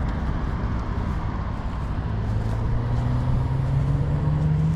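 Honda Rebel motorcycle engine and wind rush while riding, the engine note climbing steadily from about halfway through as the bike accelerates.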